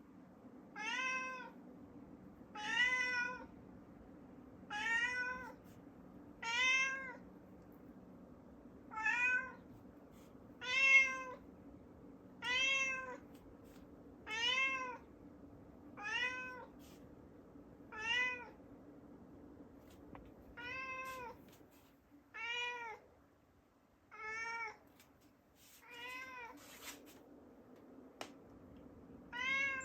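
A domestic cat meowing over and over, about fifteen times at roughly two-second intervals. Each meow rises and then falls in pitch. These are insistent demand meows from a cat that wants a closed door opened.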